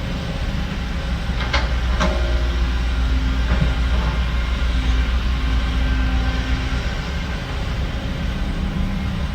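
Heavy diesel earthmoving machinery running with a steady low rumble, with a couple of sharp metallic clanks about a second and a half and two seconds in.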